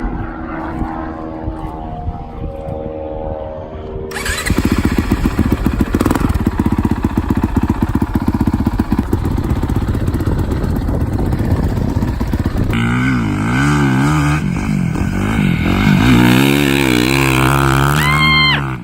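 Dirt bike engines on a motocross track, in segments that change abruptly. First a bike's engine pitch falls as it goes by, then a fast steady run of engine pulses, then revving that swings up and down, with the pitch climbing near the end.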